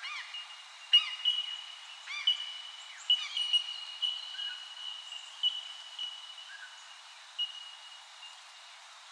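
Wild birds calling. Short arching calls come about once a second for the first three seconds, over a thin, high, steady note that starts again several times.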